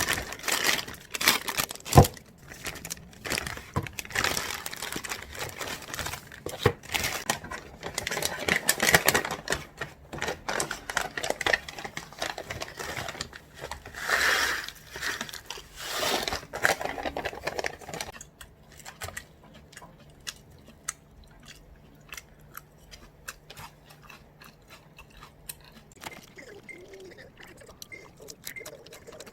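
Crunching and crinkling of food being handled and eaten: dense irregular crackles and clicks for most of the first part, then only scattered quieter ticks.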